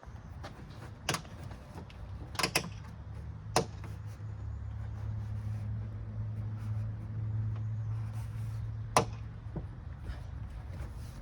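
A few sharp clicks and knocks from working plastic trim clips and the interior trim panel of the tailgate, over a low steady hum through the middle.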